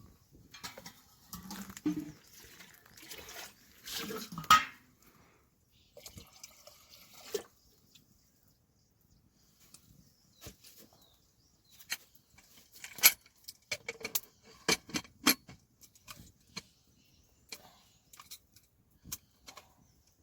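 Irregular knocks and clinks of objects being handled, with a cluster of sharp clicks about twelve to sixteen seconds in.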